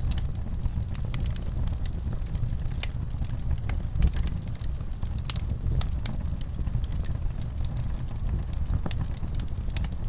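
Wood fire crackling: irregular sharp pops and snaps over a steady low rumble of burning, with a louder pop about four seconds in.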